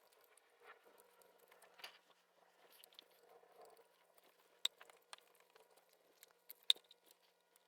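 Faint handling sounds of plastic ignition coils being pushed and moved on the engine: soft rustling with a few sharp light clicks, two of them louder, in the second half.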